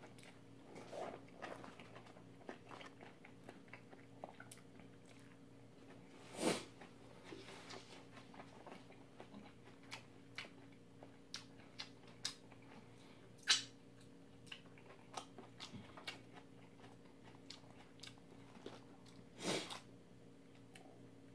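Close-miked chewing of a mouthful of noodles, with many small wet mouth clicks and smacks. Two louder, longer mouth sounds come about a third of the way in and near the end. A faint steady hum sits underneath.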